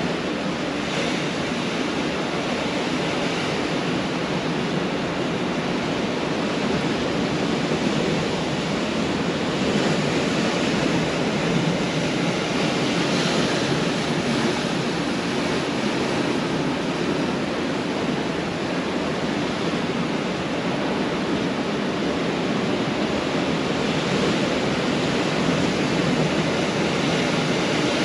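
Pacific Ocean surf: waves breaking and washing on a beach as a continuous rush, swelling and easing gently.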